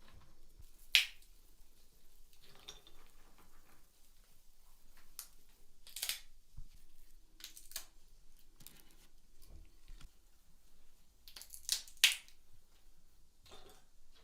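Scattered sharp taps and clicks with quiet between them, the loudest about a second in and a close pair near the end.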